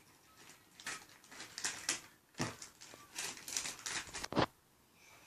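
Candy packaging handled: irregular rustling and crinkling with sharp ticks, clustered toward the end.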